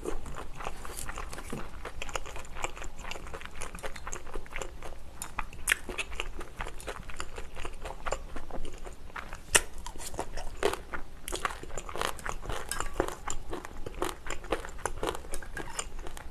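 Close-miked chewing of rice and Korean side dishes: wet, crunchy bites with irregular sharp crackles and clicks.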